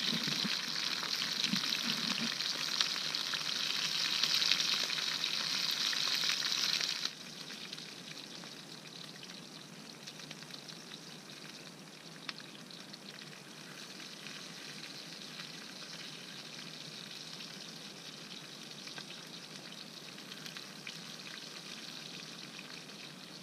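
Chicken breast frying over a campfire, a steady crackling sizzle. About seven seconds in, it drops suddenly to a much quieter sizzle that carries on.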